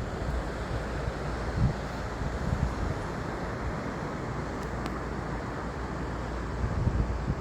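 Steady outdoor background noise: a low, uneven rumble with a hiss on top, like wind on the microphone, and no distinct calls or knocks.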